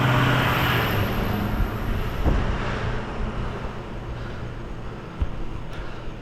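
Road traffic: a motor vehicle passing, its engine hum and tyre noise loudest at the start and fading away.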